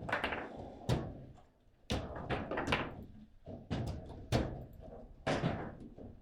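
Table football play: sharp knocks and thuds from the ball being struck by the rod-mounted players and hitting the table, coming irregularly about once a second.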